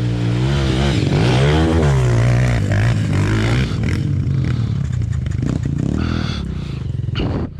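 Dirt-bike engine running under throttle, its pitch rising and falling with the revs in the first couple of seconds and then holding steadier. The level drops off near the end.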